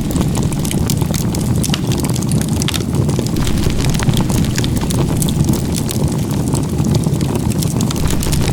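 Campfire crackling: many sharp pops and crackles over a steady low rumble.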